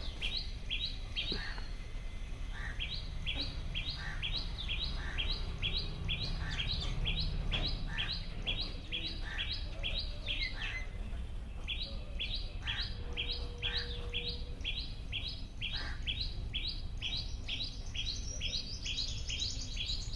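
A small bird chirping over and over, about two short chirps a second, with a pause of about a second near the middle. A second, higher-pitched call joins near the end, over a low steady rumble.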